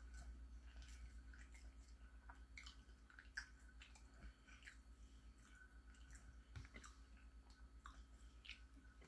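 Faint, soft chewing of a mouthful of turkey and cheese sandwich, with scattered small wet mouth clicks over a steady low hum.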